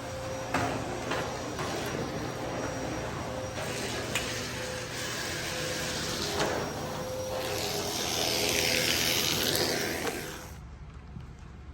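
Rubbermaid backpack vacuum running, with scattered knocks of the wand and a louder hissing stretch about eight seconds in. The sound drops off about a second before the end.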